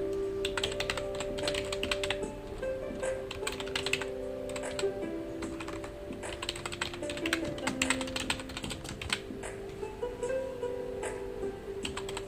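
Computer keyboard typing in bursts of rapid keystrokes with short pauses between them, over soft background music with held notes.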